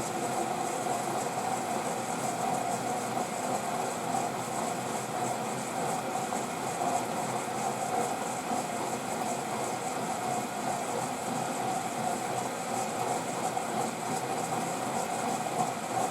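Washing machine filling with water for a rinse: a steady rush of water through the inlet valve, with a steady hum under it.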